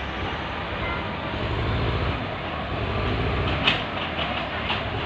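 Motor vehicle running with a steady low engine rumble and rattling noise, and a few sharp clicks or knocks near the end.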